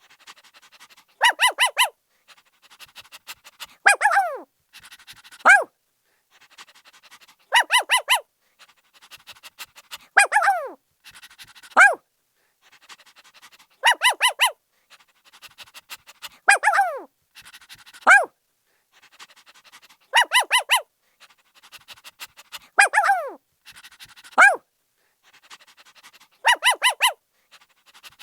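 Puppy barking: quick bursts of short yaps alternate with high yelps that fall in pitch, with light panting between them. The pattern repeats about every six seconds.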